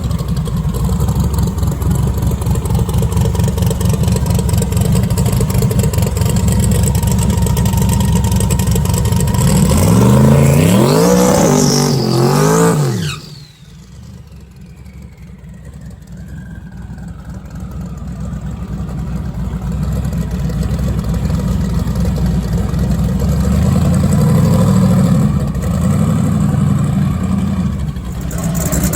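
Drag-race car engines running loud, revving up and down in pitch about ten seconds in, then the sound drops off sharply and slowly builds again.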